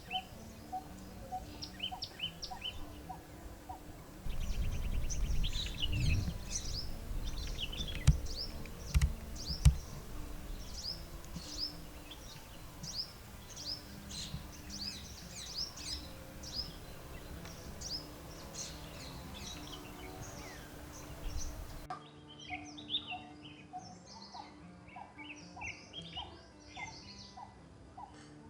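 Several wild birds chirping and calling in quick, overlapping notes. A low rumble with two sharp thumps runs partway through.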